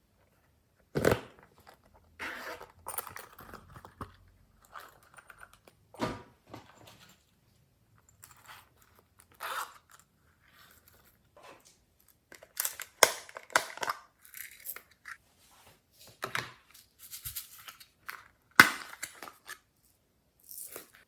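Glossy slime with clay and glitter worked by hand, giving irregular bursts of crackling, squelching and popping with short pauses between them. The sharpest pops come about a second in, around six seconds, around thirteen seconds and near the end.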